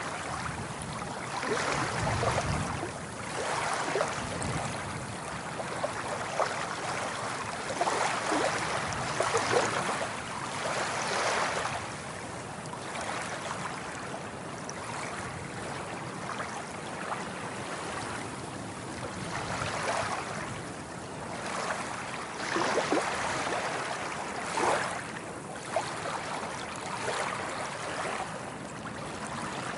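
Sea waves washing in and breaking, swelling and easing every few seconds.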